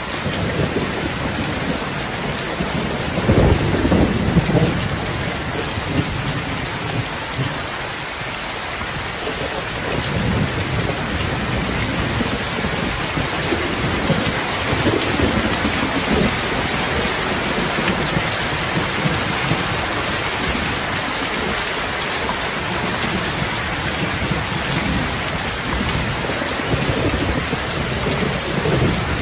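Steady heavy rain with low rolling thunder rumbling underneath, the loudest rumble about three to five seconds in.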